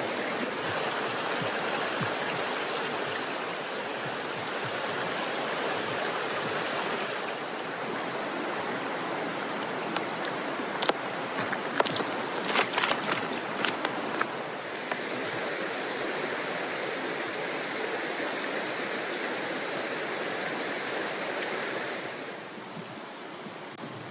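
Woodland stream rushing steadily. There is a run of short sharp clicks about halfway through.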